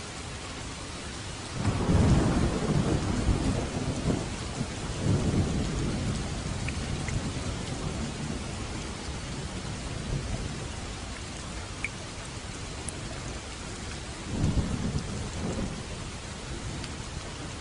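Steady rain falling, with thunder rumbling in: a long roll starting about two seconds in that swells and fades over several seconds, and a shorter roll near the end.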